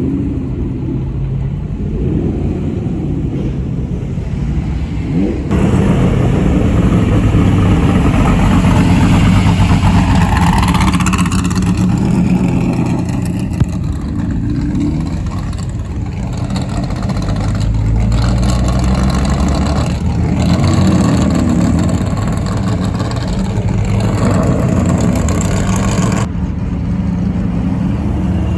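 Car engines running at low speed with a few brief revs that rise in pitch. A broad rushing noise comes in about five seconds in and cuts off near the end.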